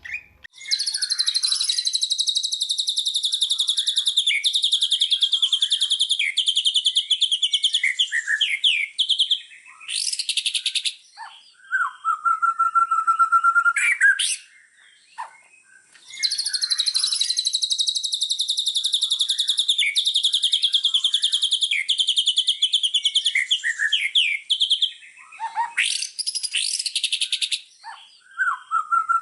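A small songbird singing a long, fast, high-pitched chattering trill of about nine seconds, followed by a short steady whistle. The same phrase comes round again about halfway through, as in a looped song-tutoring (masteran) recording for cage birds.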